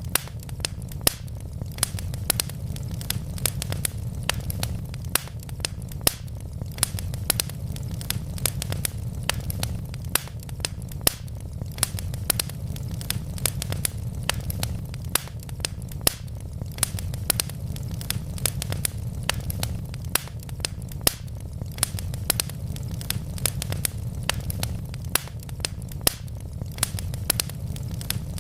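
Wood fire burning in a fireplace: logs crackling with frequent, irregular sharp pops over a steady low rumble.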